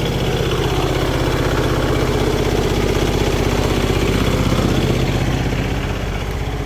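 Tractor diesel engine idling steadily with a fast, even beat, running with its fuel system just bled of air after the fuel filter was cleaned. The engine note eases down slightly near the end.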